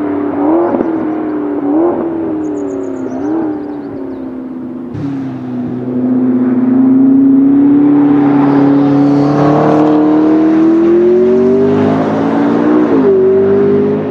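McLaren 650S's twin-turbo V8 running hard. Three quick rev blips come in the first few seconds, then a steady engine note builds as the car passes close by, with a drop in pitch at a gear change near the end.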